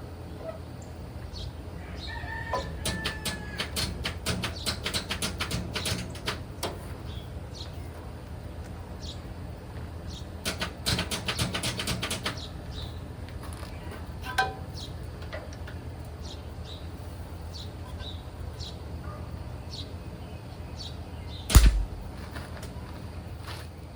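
Welder tacking steel: two bursts of rapid, irregular crackling, a longer one of about four seconds and a shorter one of about two, over a steady low hum. A single loud thump comes near the end.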